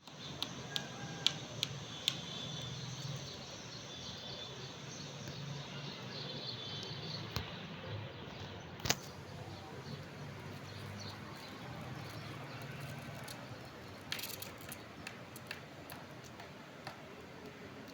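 Faint, short bird chirps come and go over a steady low hum, with scattered sharp clicks: several in the first two seconds, one louder click about nine seconds in and a cluster near the end.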